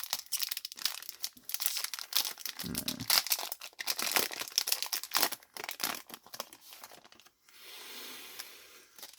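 Foil wrapper of a Yu-Gi-Oh booster pack crinkling and tearing as it is ripped open, a dense run of crackles for about five seconds with a dull thump near the middle. Near the end comes a long breathy sniff, the cards being smelled.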